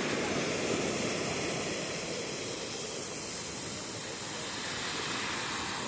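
Ocean waves washing in: a steady rushing wash of surf that eases slowly.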